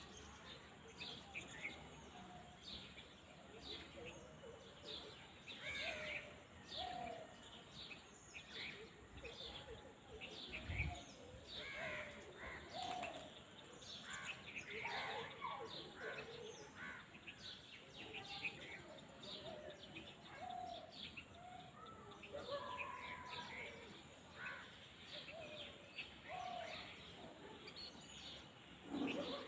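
Small birds chirping and calling, many short faint calls overlapping, with some lower calls among them. A single dull thump comes about eleven seconds in.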